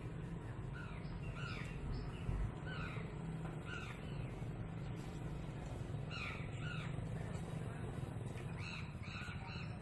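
Birds calling: short repeated calls in a few bursts with pauses between them, over a steady low hum.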